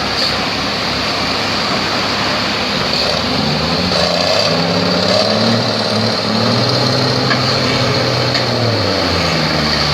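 Boat engine running steadily under a constant wash of noise. From about three seconds in, a low pitched tone steps up and down in pitch over it.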